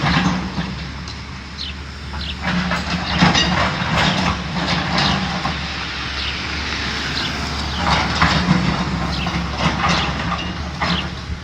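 Building demolition: a heavy machine's engine runs steadily while wood, masonry and metal crunch, crack and clatter in irregular bursts as the structure is torn apart.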